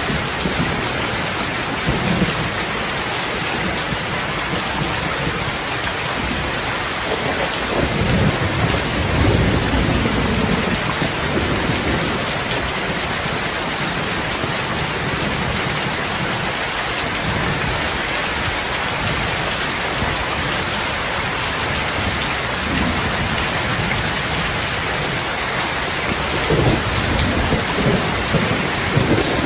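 Heavy, steady rain, with low rolls of thunder swelling up about eight seconds in and again near the end.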